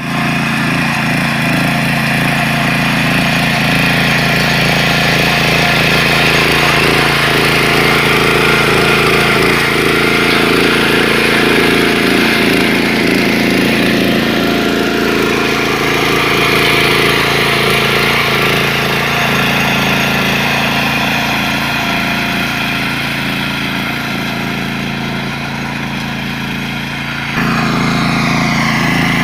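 Small tractor engine running steadily. Its note eases a little in the second half and then steps up sharply near the end.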